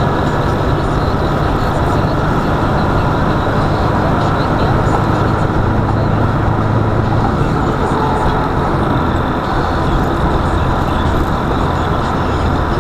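Steady engine and road noise of a car being driven, a constant low hum with dense rumble.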